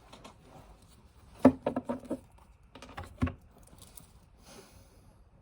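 Tarot cards being handled on a table: a few soft taps about a second and a half in and again around three seconds, then a brief papery rustle near the end.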